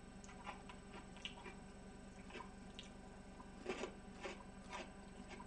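A person chewing a mouthful of food: faint, irregular wet clicks and smacks.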